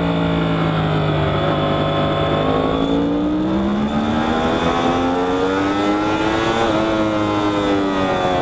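Yamaha R1 sportbike's inline-four engine heard from on board, its note falling as the bike slows through a corner, then rising steadily under hard acceleration, with a brief hitch in the note about two thirds of the way through before it levels off. Wind rushes over the bike throughout.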